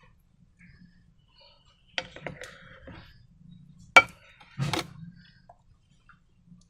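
A few sharp clicks and taps of hard objects being handled, with quieter handling noise between them. The sharpest and loudest tap comes about four seconds in.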